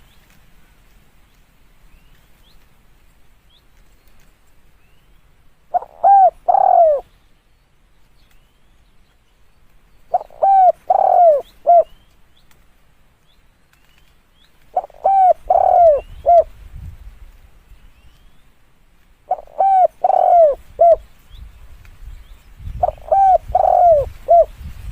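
Spotted dove cooing: five phrases of three or four coos each, repeated about every four to five seconds.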